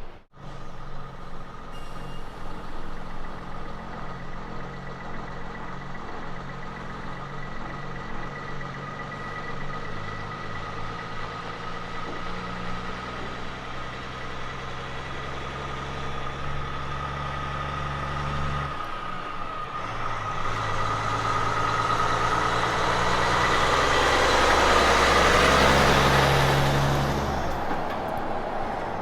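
Road train prime mover's diesel engine pulling under load, with a steady high whine over it. The engine note breaks off briefly about two-thirds of the way through, as at a gear change, then picks up again. It grows loudest near the end as the truck and its trailers pass close by with rising tyre and road noise, then begins to fade.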